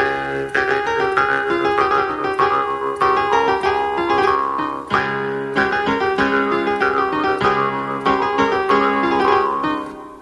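Piano music: a lively piece of struck notes and chords that fades away near the end.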